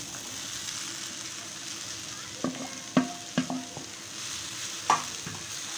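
Onion-tomato masala sizzling in a frying pan, with a few sharp knocks and a brief metallic ring as sliced mushrooms are tipped in from a steel bowl and stirred with a wooden spatula.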